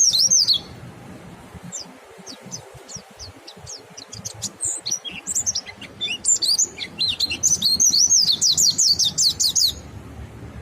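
White-eyes (pleci) singing: a fast run of high twittering chirps right at the start, scattered single chirps, then a long rapid twittering song from about six seconds in that stops suddenly near the end.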